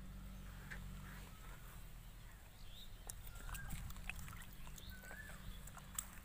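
Faint bird calls: short whistles that bend up and down, a few over the last half, over a low steady hum and scattered light clicks.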